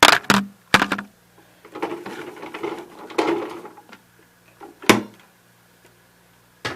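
Handling noise close to the microphone: a few sharp clicks and knocks, with a stretch of scraping and rustling between them. The vacuum cleaner is not running.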